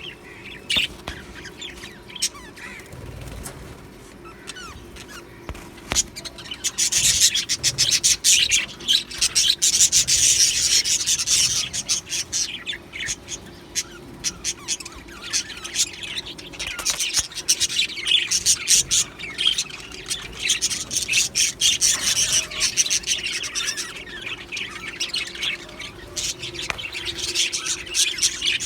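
A flock of budgerigars chattering and chirping, many rapid high calls overlapping, busier in stretches, over a faint steady hum.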